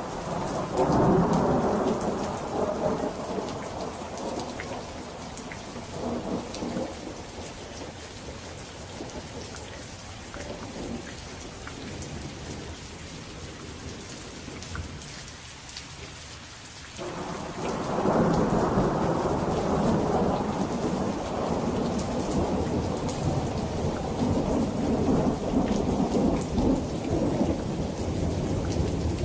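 Steady rain falling, with fine drop patter, under rolling thunder. One long rumble swells right at the start and fades away over several seconds; a second, louder roll begins a little past halfway and keeps rumbling on.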